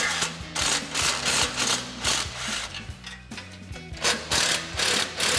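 Impact wrench with a 14 mm socket running in several short bursts and one longer one near the end, driving out the spring bolts of an exhaust flange.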